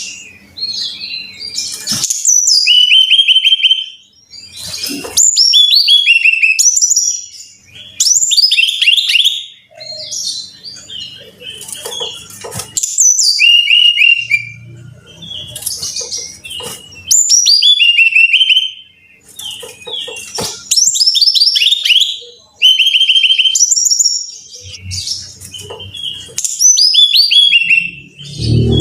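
Brown-chested jungle flycatcher (sikatan rimba dada coklat) singing: loud phrases of quick, high, falling whistled notes, each about two seconds long, repeated about every three seconds.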